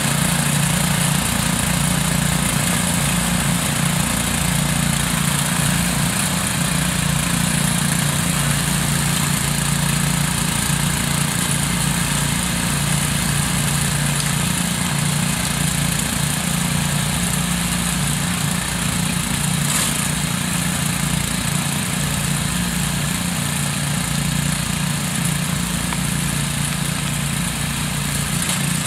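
Lawn tractor engine running steadily at an even speed while towing tillers through the soil.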